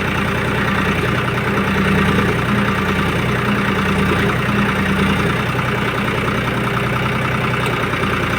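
Tractor diesel engine running steadily at a fast idle, its note wavering slightly as load from the backhoe comes and goes.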